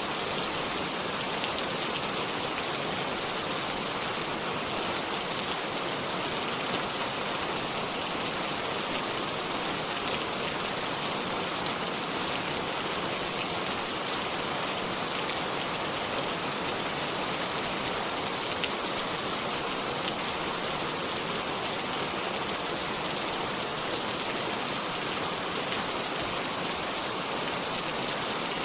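Steady rainfall, an even hiss of rain with many small drops pattering on surfaces and leaves.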